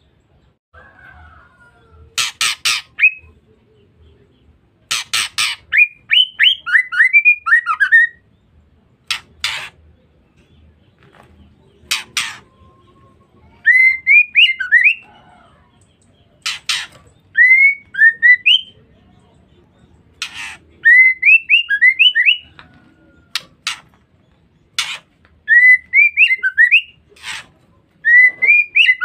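Female white-rumped shama calling: short bursts of quick, sweeping whistled notes alternate with brief harsh, rasping chatter calls (ngeriwik), repeated every couple of seconds.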